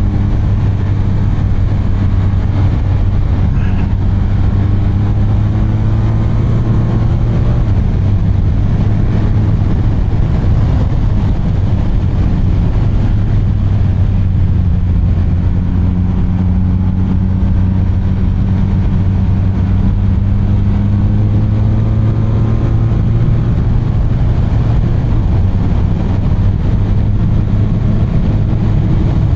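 BMW R 1250 RT's boxer-twin engine running steadily while the motorcycle is ridden, its pitch rising gently a few times, over a steady rush of wind and road noise.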